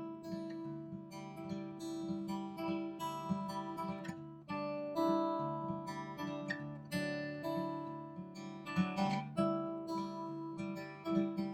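Background music: acoustic guitar picking and strumming, with chords changing every second or so.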